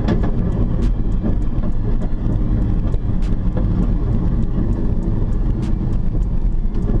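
2006 Dodge Charger's 5.7-litre Hemi V8 cruising at a steady pace, a steady low rumble of engine and road noise heard from inside the cabin.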